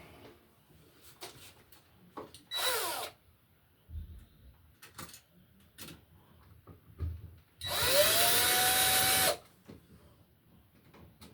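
Cordless drill/driver driving the GFCI receptacle's mounting screws into the electrical box: a short whirring burst about two seconds in, then a longer run of under two seconds that spins up and holds steady, with small clicks of handling between.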